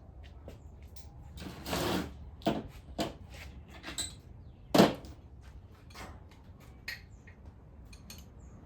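Hand tools and metal engine parts being handled during an engine teardown: scattered clicks and knocks, a longer scrape about a second and a half in, and one sharp knock near the middle that is the loudest.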